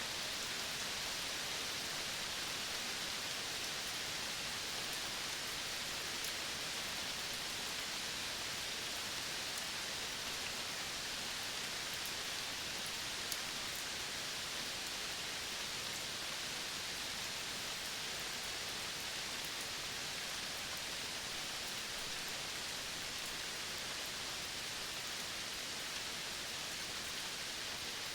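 Steady outdoor nature ambience of a tropical Caribbean forest: an even, unbroken hiss, strongest in the upper-middle range, with a few faint ticks.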